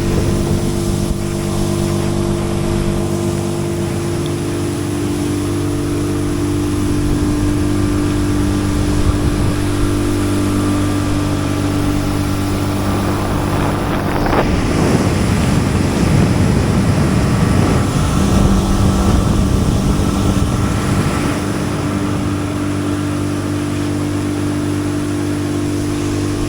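Small outboard motor on a jon boat running steadily at planing speed. A rushing noise of water and wind swells over the engine partway through.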